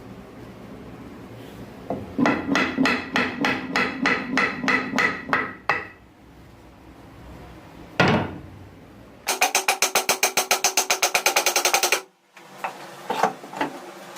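Repeated hammer blows: a run at about four a second, a single blow, then a faster run at about eight a second that stops suddenly.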